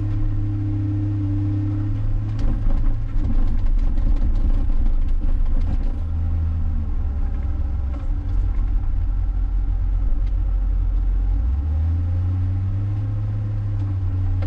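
John Deere 544K wheel loader's diesel engine running while pushing snow, its low hum rising and falling in pitch several times as the machine works, getting louder about two seconds in.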